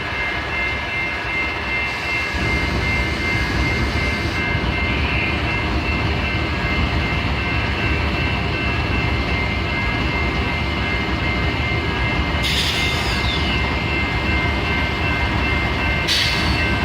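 Diesel freight locomotives running: a steady low rumble with a few steady high whining tones over it. Two short hisses come about twelve and sixteen seconds in.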